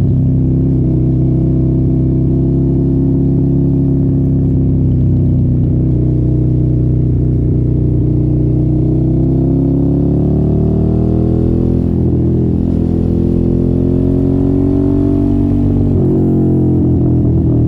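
Suzuki sport motorcycle with an aftermarket silencer, engine running under way. Its note sinks and climbs with the throttle. There is a brief drop in level about twelve seconds in, then the pitch rises again.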